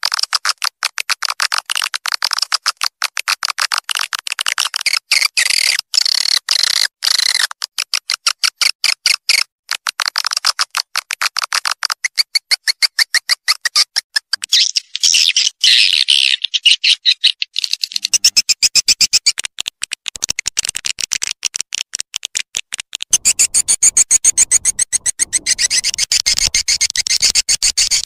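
Swiftlet call-sound lure track: dense, rapid chirping and clicking twitters of swiftlets, many pulses a second, looped to draw swiftlets in. A faint low hum joins in the second half.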